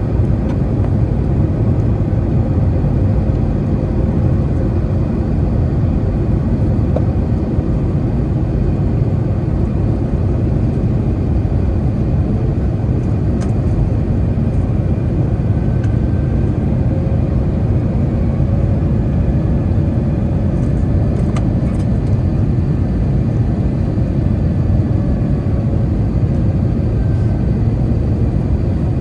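Steady roar of engine and airflow noise inside an Airbus A321 airliner's cabin in flight, with faint steady tones over it.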